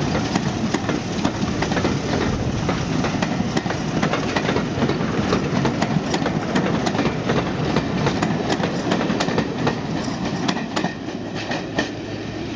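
A train running along the track, its wheels clicking rapidly and irregularly over rail joints above a steady rumble, the noise easing off a little near the end.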